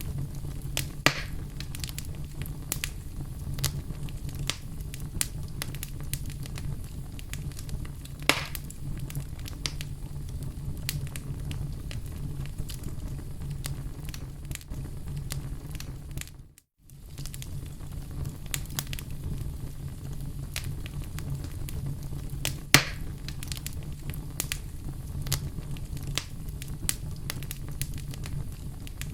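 Wood fire in a fireplace crackling: a steady low rumble of flames with many small sharp crackles and three louder pops. The sound cuts out briefly about midway.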